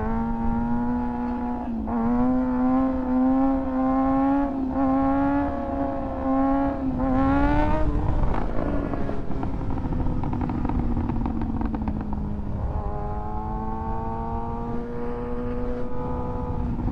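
2024 Kawasaki ZX-6R's inline-four engine pulling hard through the gears, its note breaking briefly at each shift about two, four and a half and seven seconds in. After a last climb around eight seconds the engine speed falls away slowly, then holds steady from about thirteen seconds on.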